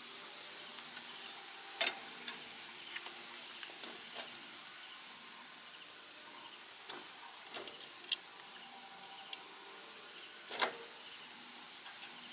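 Faint steady hiss with a handful of sharp clicks and light taps, the loudest about two, eight and ten and a half seconds in.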